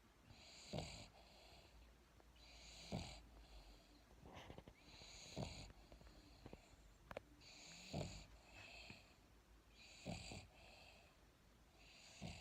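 A sleeping dog snoring faintly and rhythmically, about one snore every two and a half seconds. Each snore is a brief sharp rasp followed by a breathy hiss.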